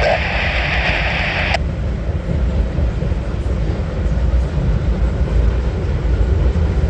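Steady low rumble of a freight train rolling past. Radio static cuts off sharply about a second and a half in.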